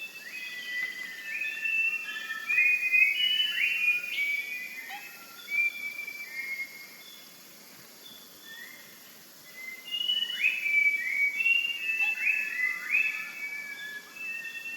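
Rufous-crowned babbler singing: a run of clear whistled notes at shifting pitches, some gliding upward, in two bouts with a pause of a few seconds between.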